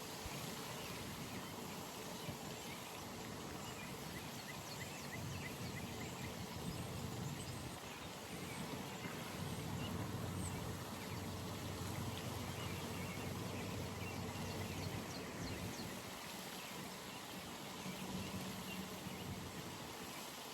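Outdoor pond ambience: a steady background hiss with faint short chirps of small animals, and a low distant hum that swells for several seconds in the middle and again briefly near the end.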